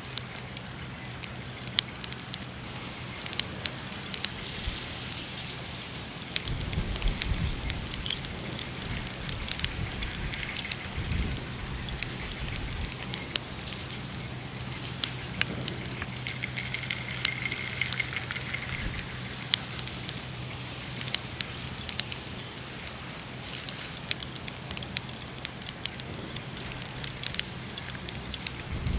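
Wood campfire crackling, with frequent sharp irregular pops over a low hiss. A few dull low thumps come about 7 and 11 seconds in, and a brief high whistle comes after about 16 seconds.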